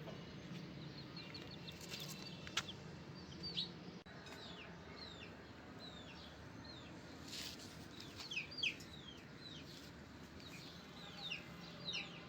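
Birds chirping faintly: many short, quick downward chirps in scattered clusters over a low steady hum, with a single sharp click a few seconds in.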